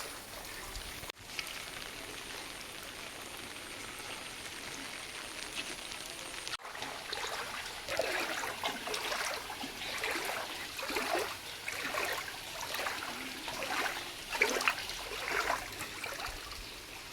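Rainwater running over a flooded road: a steady wash of flowing water, with irregular louder splashing and spattering from about eight seconds in.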